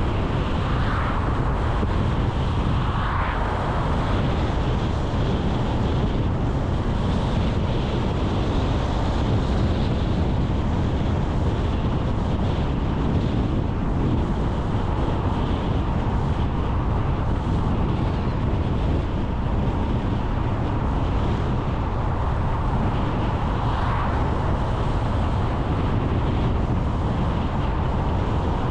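Steady noise of a car being driven: engine and tyre rumble with wind noise on the microphone, plus a few brief swells near the start and near the end.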